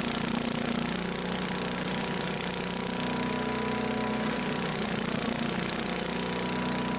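Earthquake 212cc chipper shredder running steadily at a constant pitch while it shreds and mulches dry leaves, with a steady rushing noise over the engine.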